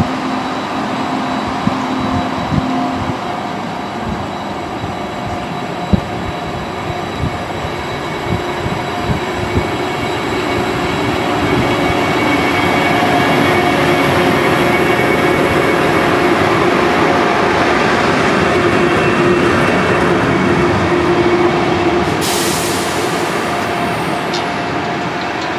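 A Trenitalia electric passenger train moving through the station: steady rolling wheel noise with a hum of several steady tones and a scatter of clicks over the rail joints, growing louder midway. A sudden high hiss starts near the end.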